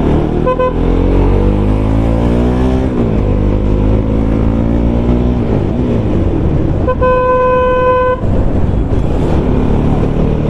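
Motorcycle engine accelerating through the gears, its pitch climbing and dropping back at shifts about three and five and a half seconds in. A vehicle horn gives a short beep near the start and a longer steady blast of just over a second about seven seconds in.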